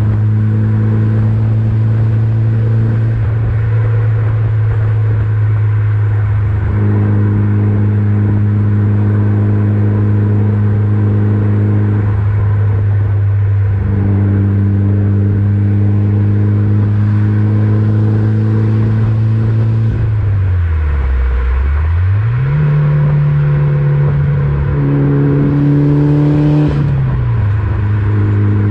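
Mitsubishi Lancer Evolution VIII's turbocharged four-cylinder engine droning through an Invidia exhaust at a steady cruise. About two-thirds of the way through the revs dip low, then climb and hold at a higher pitch for a few seconds before settling back to the cruising drone.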